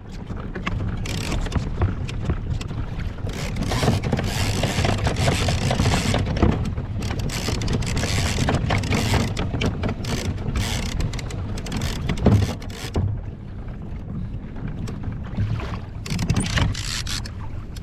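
Water rushing and splashing against a moving kayak's hull, with wind buffeting the microphone; the noise swells and falls unevenly.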